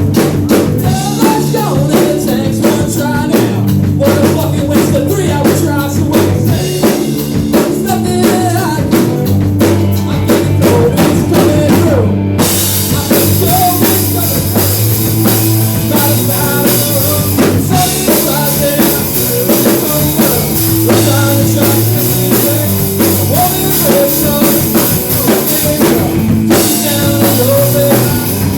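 A rock band playing live: drum kit with bass drum and cymbals, bass and guitar. The band stops for a moment about twelve seconds in, then comes back in with cymbals washing louder over the rest.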